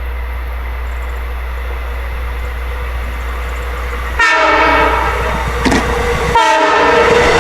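Long Island Rail Road push-pull train sounding the horn on its leading C-3 cab car as it approaches: a loud multi-note horn chord starting suddenly about four seconds in, a brief break, then a second blast near the end, over a steady low rumble.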